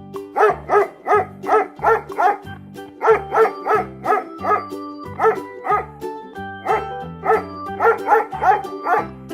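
A dog barking over and over in quick runs of several barks, about two to three barks a second, over background music with a steady bass beat.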